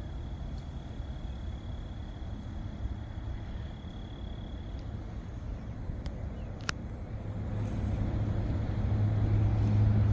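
Low rumble of a motor vehicle, with an engine hum that grows steadily louder over the last few seconds as it comes closer. A single sharp click sounds about six and a half seconds in.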